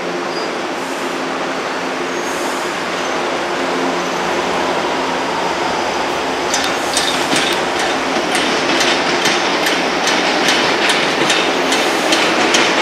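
Electric passenger train running through the station, a steady rail noise with a low hum in the first few seconds, growing slightly louder. From about halfway in come quick, irregular clicks of its wheels passing over rail joints or points.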